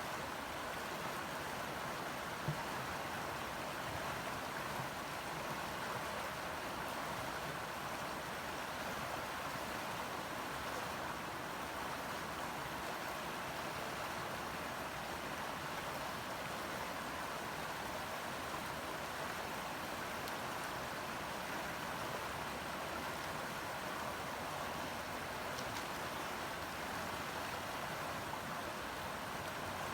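Steady rush of flowing river water, even and unchanging, with a single brief tap about two and a half seconds in.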